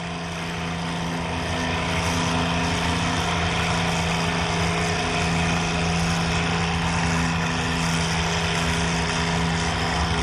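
Farm tractor engine running at a steady speed.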